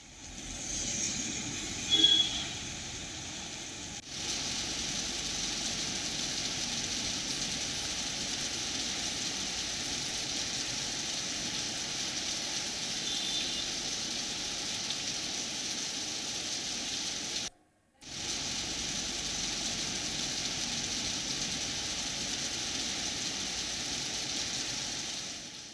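Heavy rain falling steadily, a continuous hiss, with a brief high tone about two seconds in and short breaks where the footage is cut.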